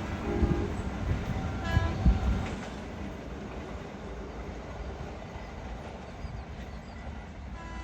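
Diesel train running, with low rumble and rail noise, and short horn notes within the first two seconds. The sound is loudest in the first two and a half seconds and steadier and quieter after that.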